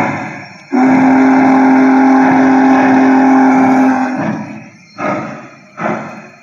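Sound system of an MTH One Gauge Challenger model steam locomotive playing one long steam-whistle blast of about three and a half seconds, chord-like and steady. Loud steam chuffs come just before it and twice more near the end.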